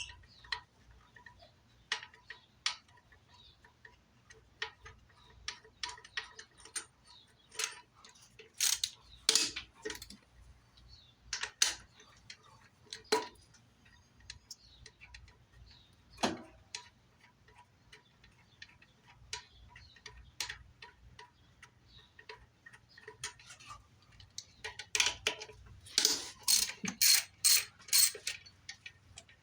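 Irregular clicks, clinks and knocks of hand tools and small parts being handled, with a quick run of sharp clicks from about 25 to 28 seconds in.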